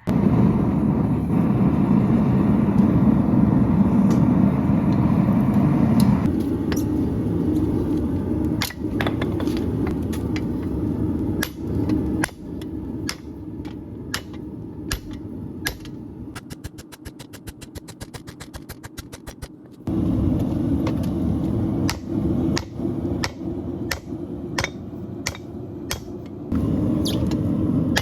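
A hammer striking steel again and again, the blows sharp and irregular, over a steady low roar. The roar cuts in and out abruptly a few times, and a rapid run of small clicks comes about two-thirds of the way through.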